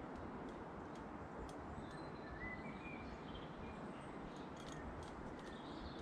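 Quiet outdoor garden ambience with a steady low hiss and small wild birds chirping faintly in short calls, with a few light ticks in the second half.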